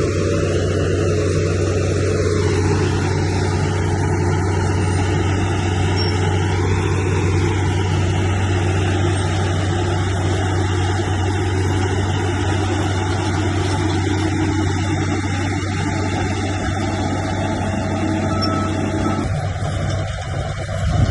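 Diesel engine of heavy earthmoving machinery, such as a bulldozer or dump truck, running steadily with a constant low drone.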